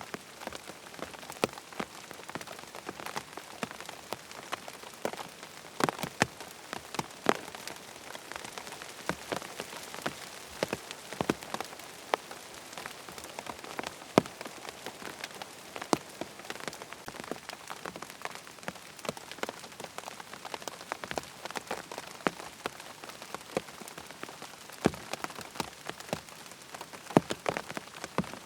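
Rain falling on a tent: a steady hiss of rain with individual drops landing as sharp, irregular taps, some of them louder.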